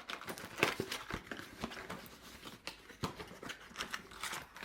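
Packaging being handled and opened: irregular crinkling, rustling and small sharp clicks, as a pack of firework fountains is unwrapped and turned over in the hands.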